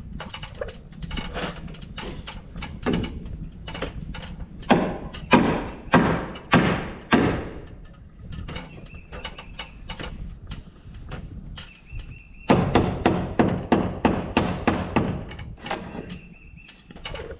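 Carpentry knocks on framing lumber: a run of about five heavy hammer-like strikes roughly half a second apart, then, after a quieter stretch, a quicker run of strikes for about three seconds.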